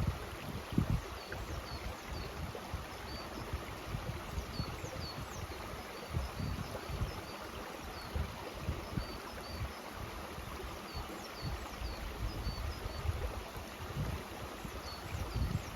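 Mountain stream rushing steadily, with short high chirps repeating faintly over it and uneven low rumbles underneath.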